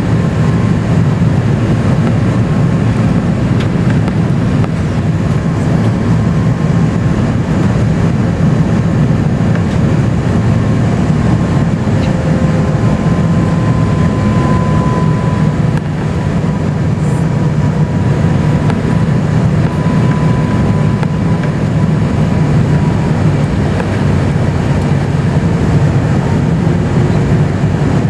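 Steady rumble of an Airbus A350-900's Rolls-Royce Trent XWB engines and airflow, heard inside the passenger cabin, with a faint steady whine from the engines.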